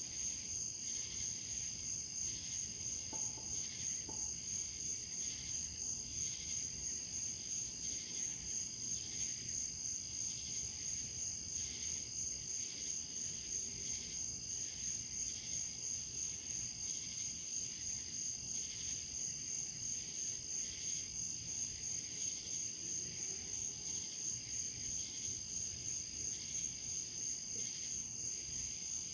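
Crickets chirping in a steady, high-pitched chorus that pulses evenly.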